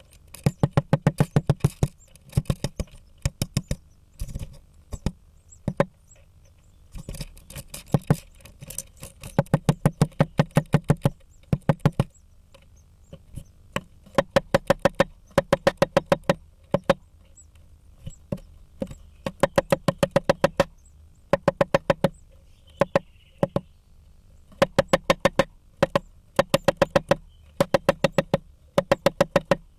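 Female great spotted woodpecker hammering at a blue tit nest with its bill. The strikes come in rapid runs of about ten a second, each run lasting a second or two with short pauses between, and have a hollow, woody knock.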